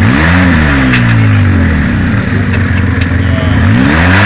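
Quad bike (ATV) engine revved hard twice, each time the pitch shooting up and then falling away slowly, over a steady low engine running underneath.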